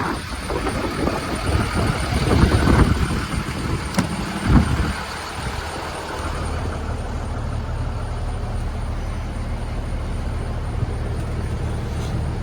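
Cummins ISB diesel engine of a Freightliner M2 box truck running. There is uneven louder noise over the first few seconds, then it settles about six seconds in into a steady idle.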